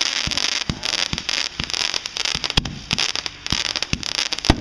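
Aerial fireworks barrage: many irregular bangs, some in quick runs, over a continuous crackle of burning stars.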